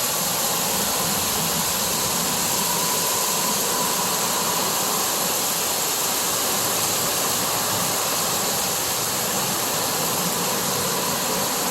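Heavy rain pouring down in a downpour, a steady dense hiss that doesn't let up.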